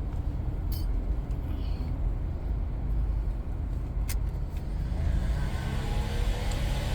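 A heat gun's blower running with a steady low rumbling rush, while heat is applied to worn seat vinyl. About five seconds in, a steady humming tone joins and grows louder.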